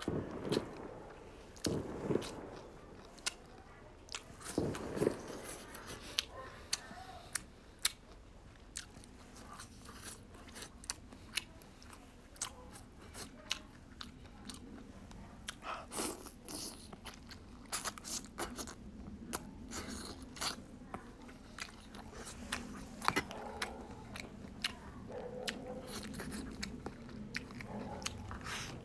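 Close-miked chewing and biting of a mouthful of rice with braised pork ribs, with irregular sharp clicks and mouth smacks.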